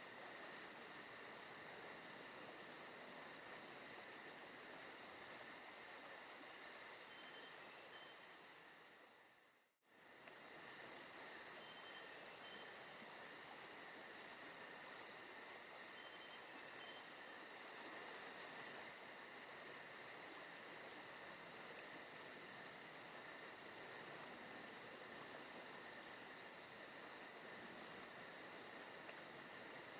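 Faint forest ambience of crickets and other insects trilling steadily in a fast, even pulse. The sound briefly fades out and straight back in about ten seconds in.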